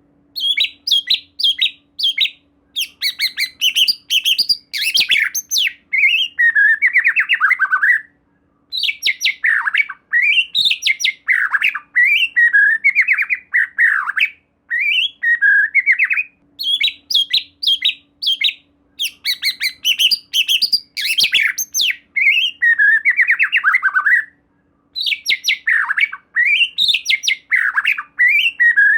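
White-rumped shama singing a loud, fast string of varied whistled and harsh phrases in long bursts, with brief pauses about every eight seconds.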